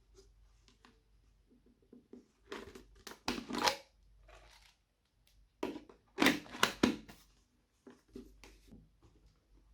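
Slime being squeezed, stretched and mixed by hand, in short bursts of sticky noise, with two louder clusters about three and six seconds in.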